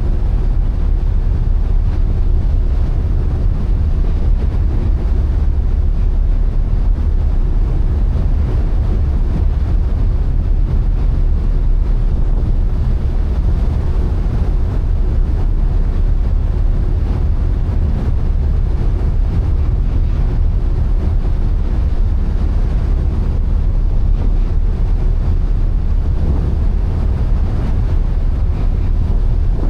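Steady low drone of a ferry under way, its engine hum mixed with wind buffeting the microphone and the rush of the sea.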